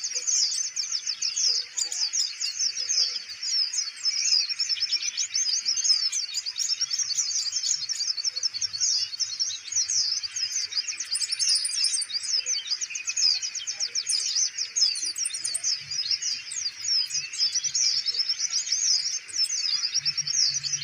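Brown-throated sunbird (kolibri ninja) singing a continuous, fast, high-pitched chattering song of rapid repeated notes.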